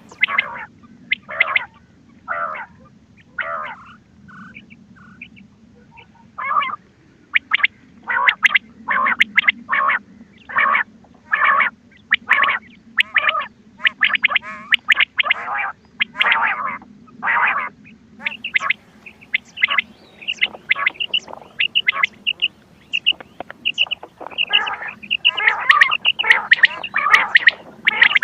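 Quail calling over and over in short, sharp calls, roughly one or two a second, over a faint low hum. The calls thin out for a few seconds soon after the start and come thicker and faster near the end.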